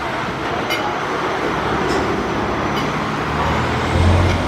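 Road traffic: a steady rush of passing vehicles, with a heavy vehicle's low engine hum growing louder near the end.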